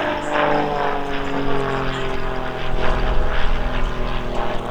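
The piston engine and propeller of an RAF Grob Tutor trainer droning as it flies past in an aerobatic display. The engine note falls steadily in pitch over the first couple of seconds, then holds lower.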